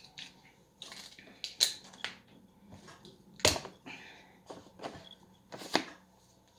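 Kitchen ingredients and utensils being handled on a work surface: scattered light clicks and knocks, with three sharper knocks about two seconds apart.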